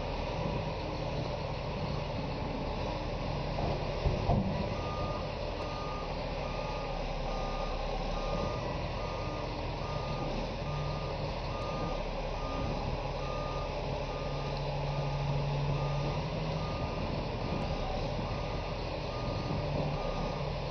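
A heavy machine's reversing alarm beeping steadily in evenly spaced single-tone beeps over the low, steady running of its diesel engine, with one short knock about four seconds in.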